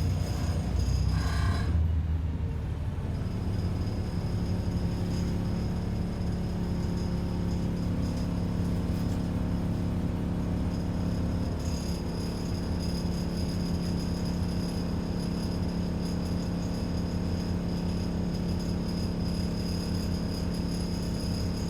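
ADL Enviro 400 double-decker bus's diesel engine idling at a standstill, heard from inside the bus: a steady hum that settles in a few seconds in.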